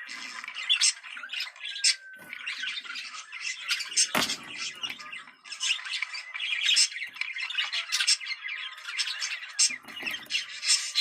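Budgerigars chattering and warbling nonstop in fast chirps and squawks, the excited budgie chatter played to bring pairs into breeding condition. A sharp click comes about four seconds in.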